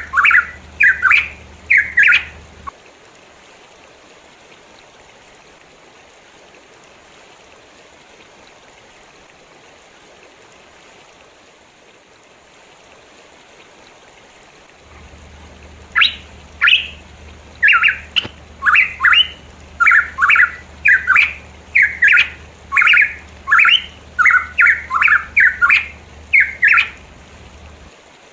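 A pitohui calling in quick series of short, harsh notes. It stops about two seconds in, leaving a steady background hiss, then calls again almost continuously from about halfway through until near the end. A low hum accompanies the calling.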